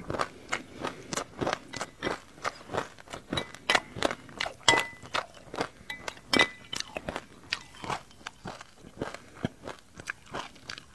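Close-miked chewing of a mouthful of sesame seeds: a steady run of crisp crunches, about three a second.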